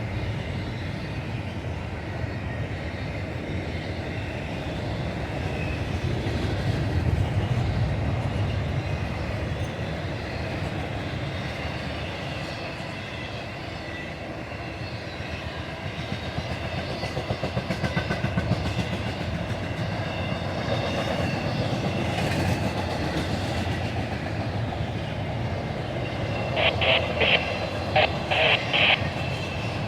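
CSX intermodal freight train rolling past, its wheels clicking over the rail joints in a steady rhythm over a continuous rumble, with a run of short sharp clacks near the end.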